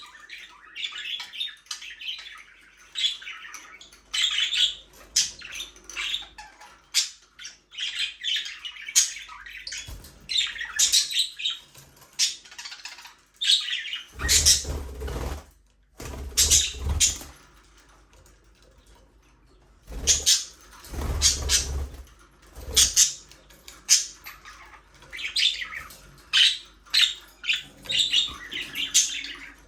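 A flock of budgerigars chirping and chattering in quick, high calls, with a short lull about two-thirds of the way through. Around the middle there are a few louder bursts of noise.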